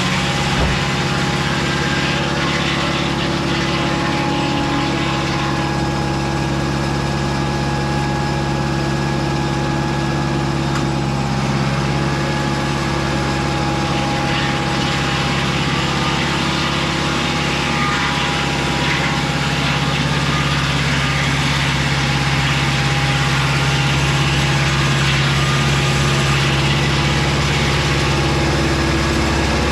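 Engine of a Mobile Dimension circular-blade sawmill running steadily, an even hum that grows slightly louder in the second half.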